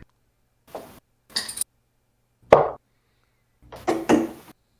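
Darts striking a dartboard: several short, sharp hits spaced about a second apart, the loudest about halfway through.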